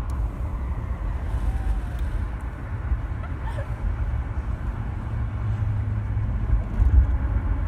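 Car driving with a window open: steady road rumble and deep wind buffeting on the microphone.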